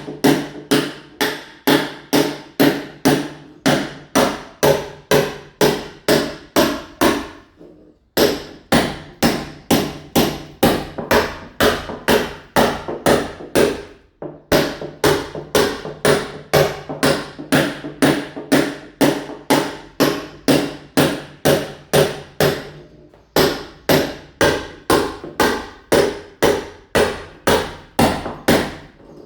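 Mason's club hammer blows chipping a masonry wall to key it for ceramic tile, about three ringing strikes a second. The runs of blows break off briefly three times.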